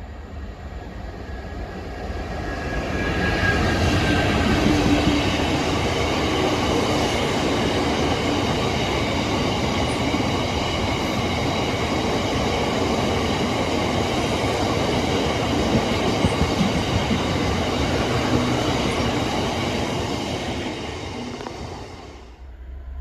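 Freight train passing. The rumble and rail clatter of the wagons builds over the first few seconds and holds steady and loud, with high ringing tones above it, then dies away near the end.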